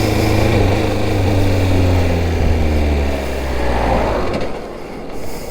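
Suzuki GSX600F's inline-four engine with its revs falling steadily as the bike slows, then dropping away about four seconds in. The bike is spluttering and has lost most of its power, which the rider suspects is something stuffed in the carburettors.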